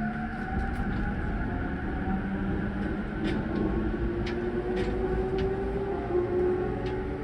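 Traction motors of a JR E231-series electric train's motor car whining, the tone climbing steadily in pitch as the train picks up speed. It runs over a low rolling rumble, with a few sharp clicks from the wheels.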